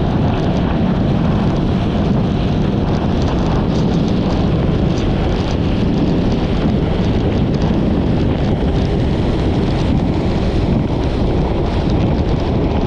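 Steady wind rush on the microphone of a Yamaha XMAX 300 scooter riding at speed, with its engine and road noise underneath.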